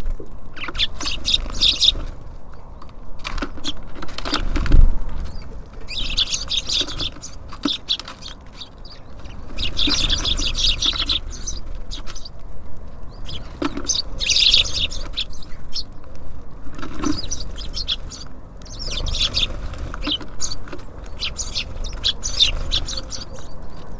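Small songbirds chirping at a bird feeder: repeated bursts of rapid, high chirping, each about a second long, every few seconds. A loud low thump comes about five seconds in, over a steady low rumble.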